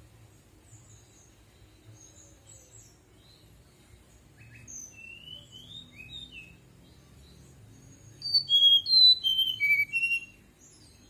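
Fulvous-chested jungle flycatcher singing its flute-like whistled song: scattered soft whistles and glides, then about two and a half seconds of loud, clear whistled notes stepping down in pitch, starting about eight seconds in.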